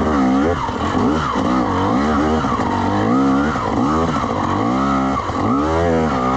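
Two-stroke dirt bike engine revving up and down in repeated bursts of throttle, its pitch rising and falling again and again.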